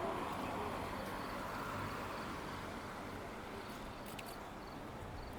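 Steady outdoor background noise, a broad rush that slowly fades, with a few faint clicks about four seconds in.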